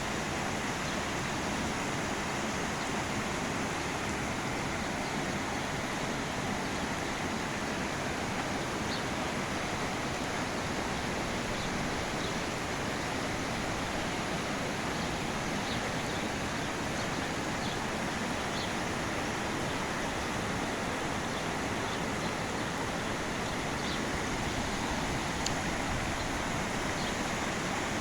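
Heavy rain falling: a steady, even hiss with a few faint ticks scattered through it.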